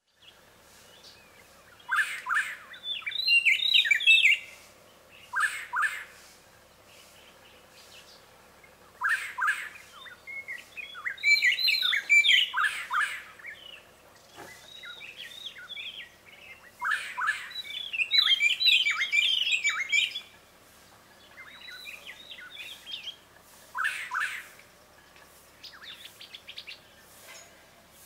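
Birds calling in repeated bursts of rapid chattering and whistled notes, about a dozen bursts with quiet gaps between, the fullest runs a few seconds long.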